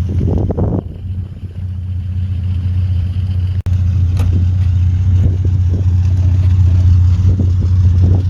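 Car engine running with a steady low drone, dipping a little about a second in; the sound breaks off for an instant about three and a half seconds in.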